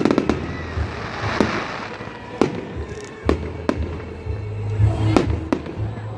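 Fireworks salute going off: a string of sharp bangs, about eight in six seconds, with a crackling shower about a second in.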